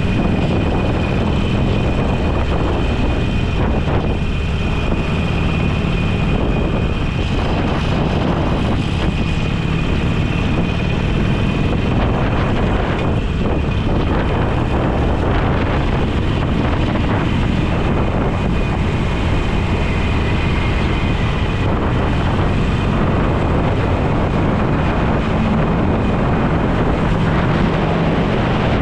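Motorcycle engine running at a steady cruising speed, with heavy wind rushing over the microphone.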